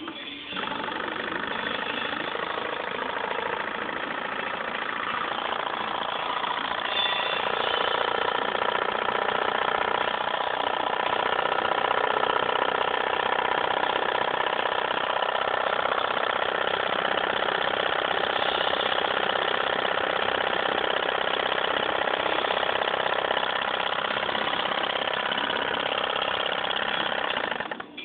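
A small model Stirling engine running steadily, giving a continuous mechanical hum of several even tones.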